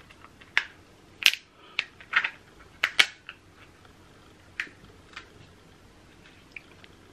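King crab shell being cracked and snapped apart by hand: a run of sharp cracks and clicks, loudest about a second in and again around three seconds, thinning out to a few scattered snaps later on.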